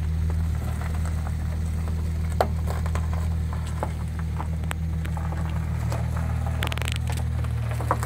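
Hyundai Genesis Coupe's engine idling with a steady low drone, with a few sharp ticks over it and a short hiss about seven seconds in.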